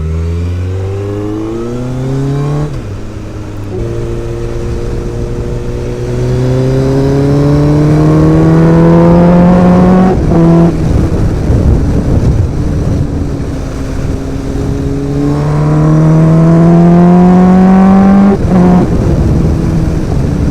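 Suzuki Bandit 1250's inline-four engine, with aftermarket extractors, exhaust and an ECU remap, accelerating hard under a rider. The revs climb in long pulls and drop sharply at gear changes about three, ten and eighteen seconds in.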